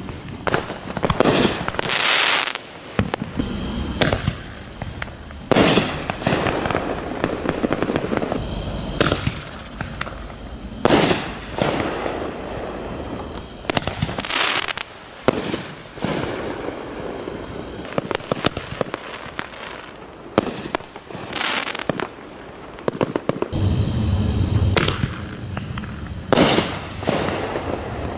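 Neon Night 1.75-inch consumer artillery shells fired in succession. Sharp launch thumps and loud bursting breaks come one after another, about every one to two seconds, each echoing briefly.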